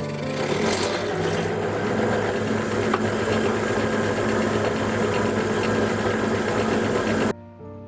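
A power tool working wood, running steadily with a dense rattling noise, then cutting off abruptly about seven seconds in.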